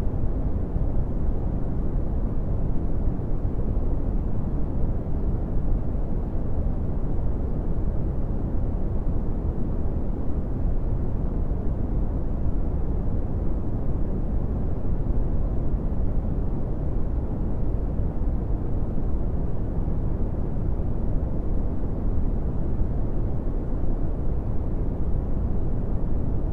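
Brown noise: a steady, deep, rumbling hiss, strongest in the lowest pitches and fading out toward the treble, with no changes or events.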